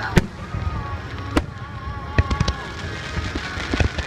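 Aerial fireworks shells bursting: about five sharp bangs at uneven intervals, the first the loudest. Music plays underneath.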